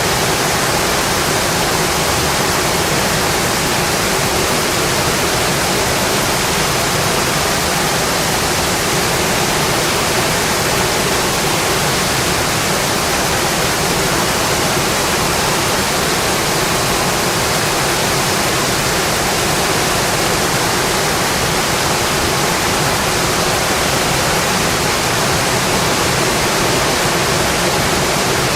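Steady, dense rainfall, an even hiss of rain with no single drops or thunder standing out.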